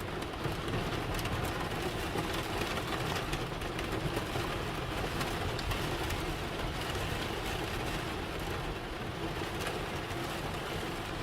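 Steady rain and road noise inside a moving vehicle: tyres on wet pavement and rain on the car, an even rushing hiss with a low drone.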